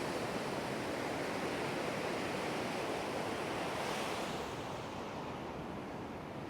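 Surf breaking and washing on a beach, a steady roar of waves with some wind on the microphone, easing a little in the last couple of seconds.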